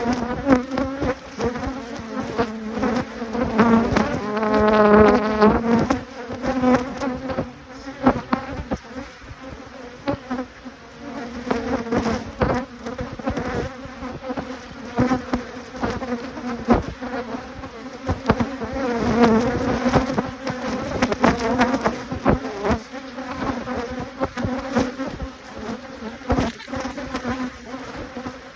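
Honeybees buzzing steadily around an opened hive, with single bees droning loudly past close by, most strongly about four to six seconds in. A few short knocks are scattered through it.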